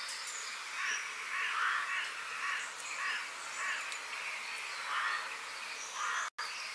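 Birds calling over a steady high hiss: a run of harsh, rough calls repeating every half second or so, with short higher chirps. The sound cuts out completely for an instant near the end.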